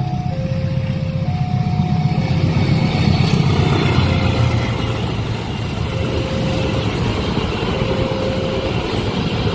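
Railway level-crossing warning alarm sounding its two-tone signal, a higher and a lower tone alternating about once a second, over the deep rumble of an approaching train that swells a couple of seconds in and partly drowns the alarm.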